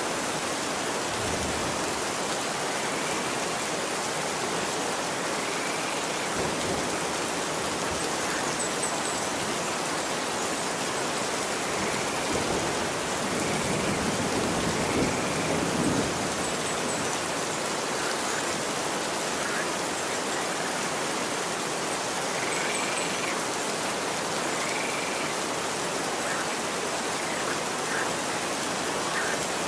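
Steady rain falling on a street, an even hiss that swells a little louder for a few seconds midway. A few faint short chirps sound at intervals.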